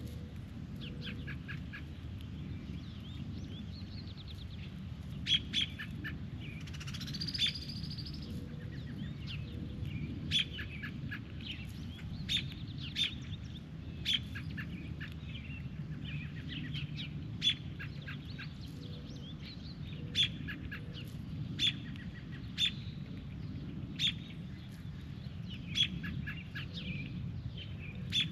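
Birds calling, with short sharp chirps repeated every second or two and one longer rising buzzy call about seven seconds in, over a steady low rumble.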